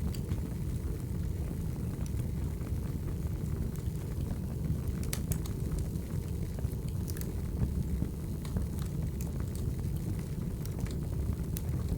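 Firewood fire burning: a steady low rumble with scattered sharp crackles and pops, a few stronger ones about five and seven seconds in.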